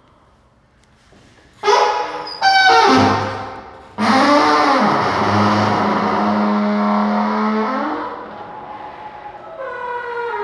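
Loud, blaring horn-like tones: two short blasts, then a long wavering one that settles on a held low note, dropping back before another blast starts near the end.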